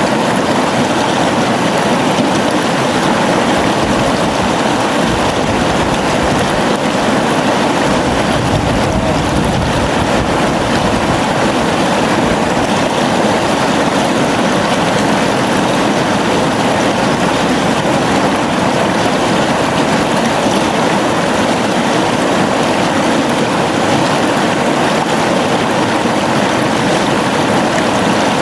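A gently flowing river: steady, unbroken water noise that holds the same level throughout.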